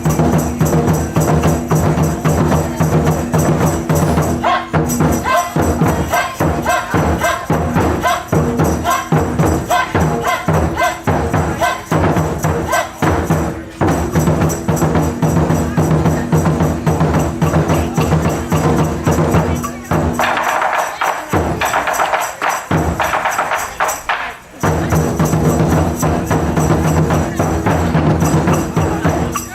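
Live drum-and-cymbal ensemble playing a fast, driving rhythm of dense strikes over a steady low ringing. About two-thirds of the way through the low drums drop out for a few seconds, leaving a higher hissing wash, before the full rhythm returns.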